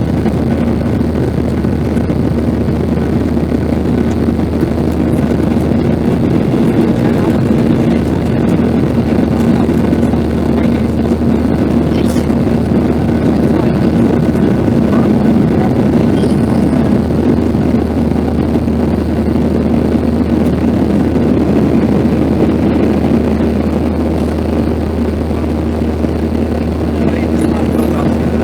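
Steady engine and airflow noise inside the cabin of a Boeing 737-800, its CFM56 turbofans running at high power: a constant rumble with a steady hum through it.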